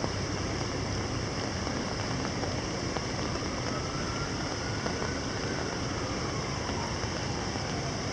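Steady rain falling on canal water, an even hiss with scattered faint drop ticks, over a low distant city hum. A faint tone glides slowly up and then down about halfway through.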